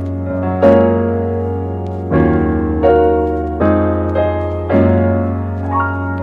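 Background piano music: slow chords struck about once a second, each ringing on over a held low bass note.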